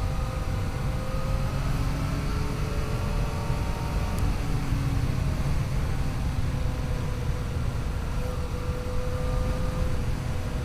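Yamaha FJ-09's three-cylinder engine running at road speed, its pitch drifting slowly up and down as the throttle changes, under a heavy low rush of wind and road noise.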